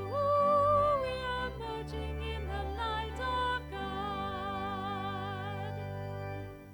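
Music: a voice sings a slow hymn melody in long held notes with vibrato over sustained low accompaniment, and the sound fades near the end.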